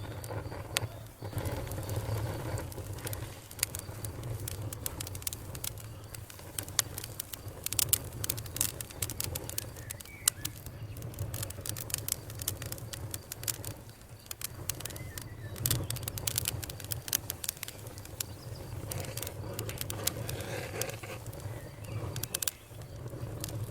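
Campfire crackling, with a low steady rumble under many sharp irregular pops and snaps that come thickest around the middle. A faint steady insect trill sounds at the start and again near the end.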